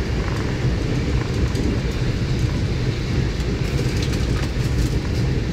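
Train running along the track: a steady low rumble of wheels on rail, with a few faint clicks about two-thirds of the way through.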